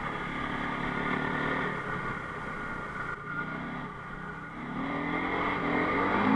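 Enduro motorcycle engine running under way, the revs easing off in the middle and then climbing again, louder, near the end.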